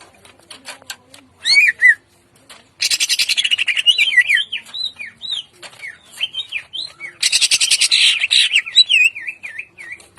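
Greater green leafbird (cucak ijo) singing in a harsh, 'ngentrok'-style rattling song: quick whistled notes that sweep up and down, broken twice by about a second of rapid, rasping rattle.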